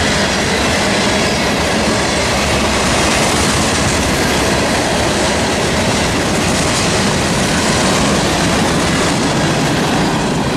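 Freight train cars rolling past close by at steady speed, a loud continuous rumble and rattle of wheels on the rail.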